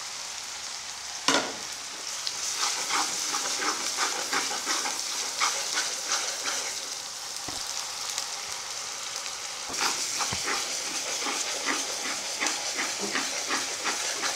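Onion, garlic, ginger and cumin paste sizzling in hot oil in a kadai, stirred with a metal spatula that scrapes and clicks against the pan. A sharp knock comes a little over a second in.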